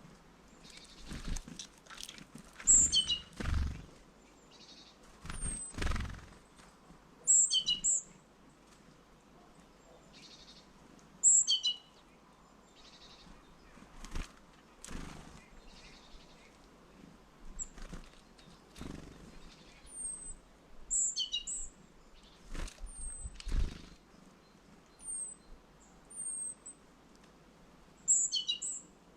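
Small songbirds at a winter feeder calling: high, thin notes that drop in pitch, about five times, with short high chirps in between. Several dull thumps are mixed in.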